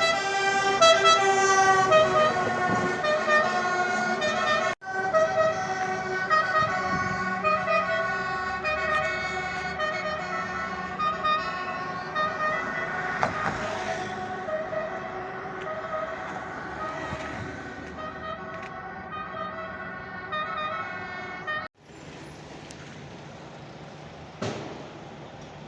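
Italian fire engine two-tone siren alternating steadily between two notes, slowly fading, for most of the stretch. It then gives way to a quieter vehicle engine rumble with a single short knock near the end.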